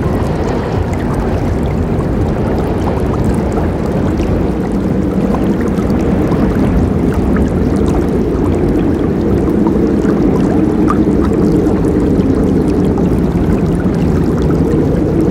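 Forest river flowing: a steady, low rush of water with many small splashes on top.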